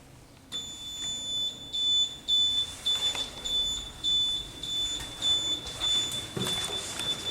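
Elevator buzzer beeping repeatedly, a high-pitched electronic tone pulsing about two to three times a second, starting about half a second in. A brief knock comes near the end.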